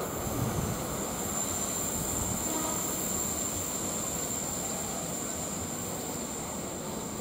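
Train passing on the rails: a steady rolling noise with a thin, steady high-pitched whine over it.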